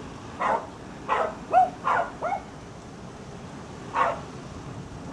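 A dog barking: a quick run of five short barks, then one more near the end.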